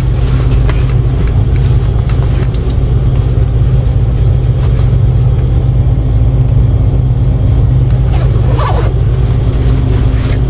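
Diesel truck engine idling with a steady low hum, with wind rumbling on the microphone in gusty conditions.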